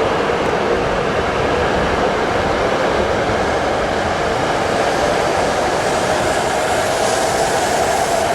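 An E5 series Shinkansen train pulling out and gathering speed. The steady running noise of the wheels and motors carries a whine that rises slowly in pitch as it accelerates.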